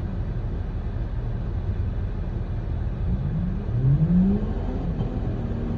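Jeep engine running off-road under load, a deep steady rumble with the revs climbing and falling again in the second half.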